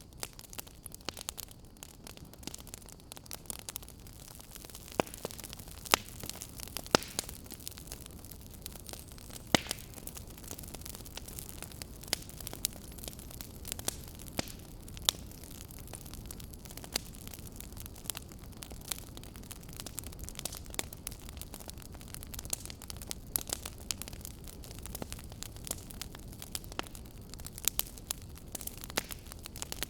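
Wood fire crackling: irregular sharp pops and snaps over a steady low hiss and rumble, with a few louder pops standing out.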